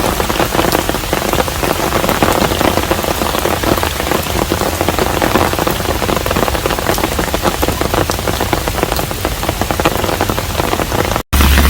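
Steady rain falling on a traditional Korean hanok, a dense patter of many drops. Near the end it cuts out for a split second and a different sound with a strong low hum begins.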